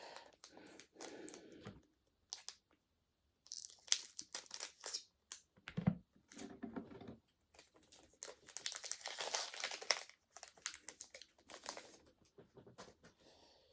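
Foil Pokémon booster pack wrapper being torn open and crinkled in several bursts with short pauses between them, and a short dull thump about six seconds in.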